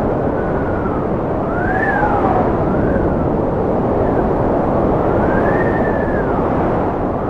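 Strong wind blowing in a steady rush, with a whistling howl that rises and falls in pitch several times.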